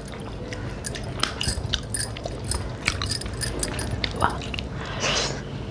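Close-miked chewing and eating of rice and mutton curry by hand: many small mouth clicks and smacks, with a few brief soft smears.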